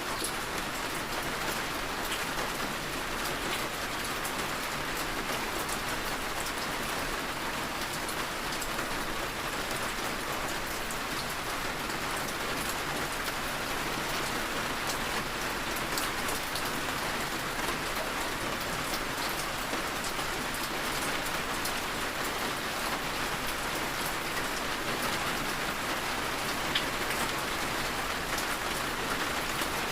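Heavy rain falling steadily, an even hiss with individual drops ticking on a surface.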